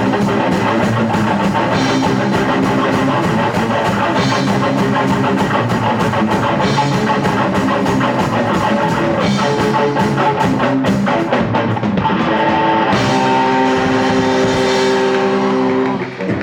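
Punk rock band playing live, with electric guitar and drum kit. Near the end the band holds one ringing chord for about three seconds before it drops off at the close of the song.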